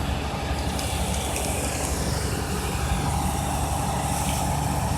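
Tow truck engine running steadily with a low rumble; a steady higher-pitched tone joins about three seconds in.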